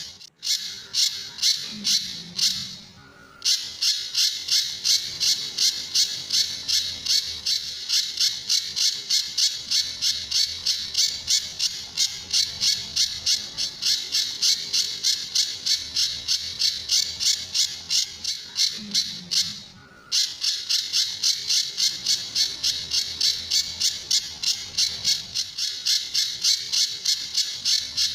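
Pijantur bird calling: a fast, unbroken string of short, high-pitched notes, about three a second, pausing briefly twice.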